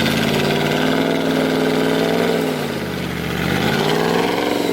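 Off-road 4x4's engine revving under load: the pitch climbs, eases off about halfway through, then climbs again near the end.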